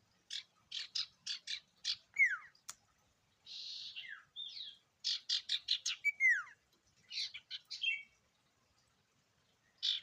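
Sirtu songbird singing a varied phrase: runs of quick sharp chirps at about five a second, downward-sliding whistles, a short buzzy rasp and a fast trill.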